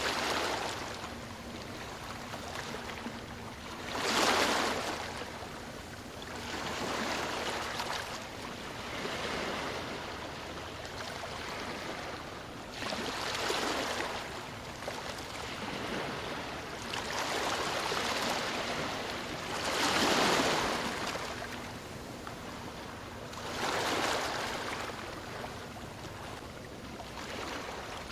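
Ocean surf: waves breaking and washing onto the shore. A louder surge of rushing water comes every few seconds over a steady wash.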